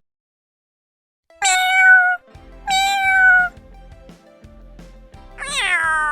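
Domestic cat meowing three times: two drawn-out meows held at a steady pitch, then a third near the end that slides downward.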